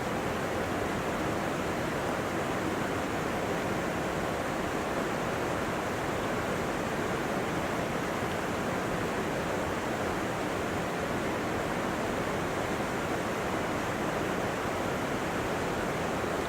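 A steady, even rushing noise with no separate events.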